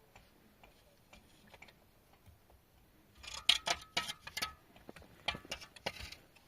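Faint scattered clicks, then from about three seconds in a quick run of sharp, louder clicks and knocks of hard objects, some with a brief ring.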